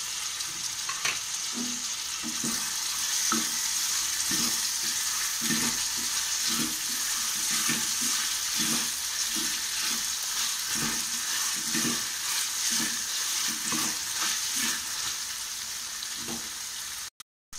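Onions and tomatoes sizzling in hot oil in a metal kadai, with a spatula stirring and scraping the pan in repeated strokes over a steady hiss. The sound cuts out briefly near the end.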